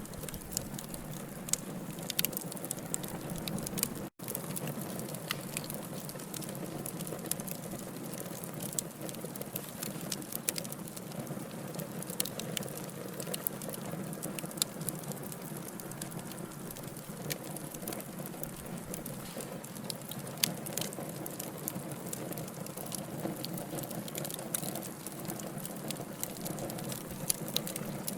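Wood logs burning in a fireplace: a steady low rush of flame with frequent small crackles and pops scattered throughout. The sound cuts out for an instant about four seconds in.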